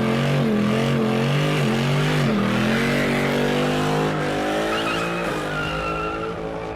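Toyota 2JZ inline-six in a German car doing a burnout: the engine is held at high revs that rise and fall repeatedly, over the hiss and squeal of the spinning rear tyres. From about four seconds in, the revs climb steadily, and the sound eases off near the end.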